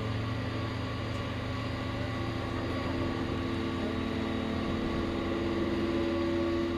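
A vehicle engine running steadily with an even, droning hum that grows a little louder toward the end.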